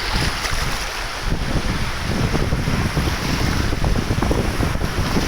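Wind buffeting the microphone over rushing water, with a heavy low rumble that grows about two seconds in.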